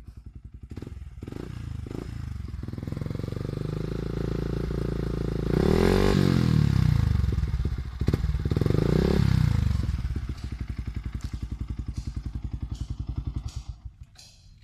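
Yamaha New Vixion's 150 cc single-cylinder four-stroke engine through a custom racing exhaust, idling with a pulsing beat, revved twice with the pitch rising and falling, then settling back to idle before dropping away near the end.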